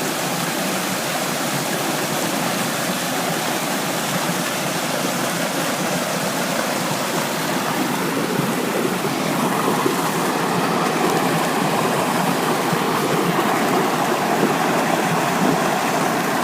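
Rushing water of a river below a waterfall, a steady roar of noise that swells a little louder about halfway through.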